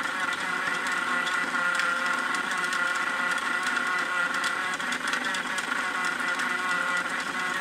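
Battery-powered toy washing machine running, its small electric motor giving a steady whine with light rattling ticks.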